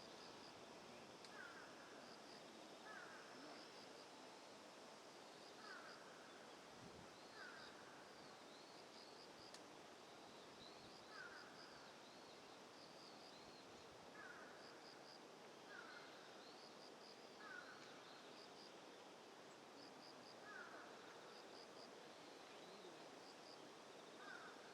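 Faint outdoor ambience with birds calling: a short, falling, harsh call repeats every second or two, while higher, quick chirps come in little groups of two or three, over a steady hiss.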